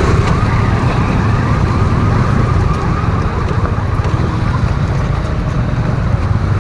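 Motorcycle riding with steady wind and engine rumble on the microphone, and a fast-warbling, siren-like tone that fades out about halfway through.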